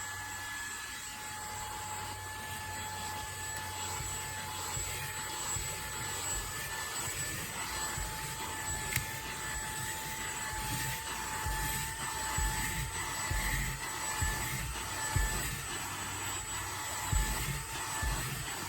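Fanttik Slim V8 Apex handheld vacuum running steadily, its motor giving a steady whine over a rush of air, with irregular low bumps from handling.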